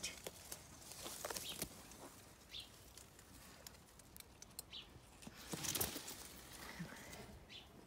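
Faint garden ambience with a few short, high bird chirps and scattered light clicks, and a brief rustle about five and a half seconds in that is the loudest sound.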